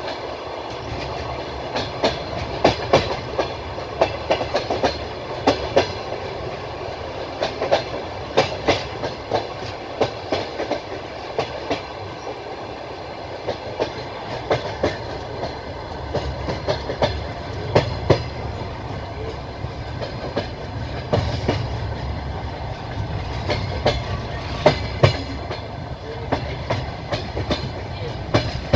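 Passenger train wheels clacking over rail joints in repeated clusters, over the steady rumble of the moving carriage, heard from a carriage window.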